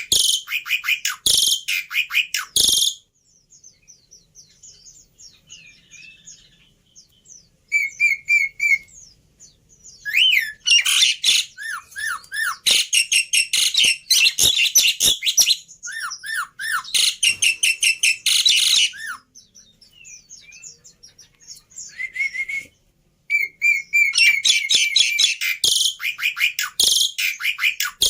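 Black-winged starling song: loud bouts of rapid, repeated chirps and short whistled notes, with quieter scattered chirps in the pauses between bouts. It is a lure and tutor song played to make captive starlings call and learn.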